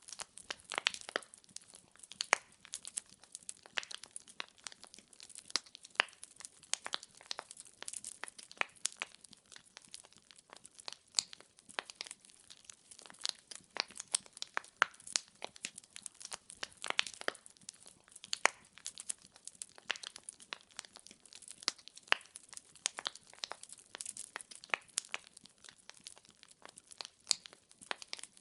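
Wood fire in a fireplace crackling: irregular sharp pops and snaps of burning firewood, several a second, over a soft hiss.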